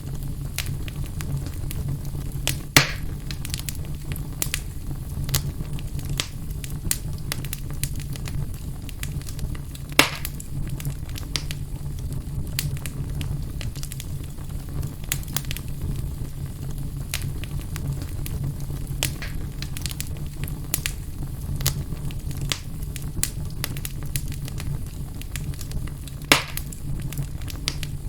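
Fire burning in a fireplace: a steady low rumble with constant small crackles, and three louder pops spread through.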